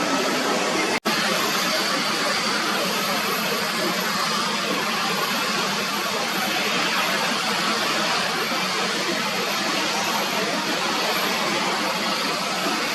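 Steady jet engine noise from an airliner, with a faint high whine over it and a split-second dropout about a second in.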